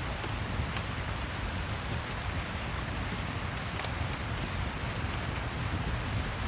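Steady rain with scattered faint crackles from a fireplace fire.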